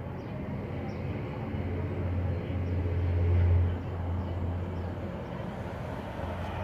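Distant military aircraft and helicopters of a flypast: a low, steady drone that swells, peaking about three and a half seconds in, then drops off suddenly.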